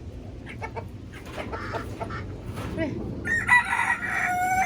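Chickens clucking in short repeated calls, then a rooster crowing in one long call about three seconds in, the loudest sound here.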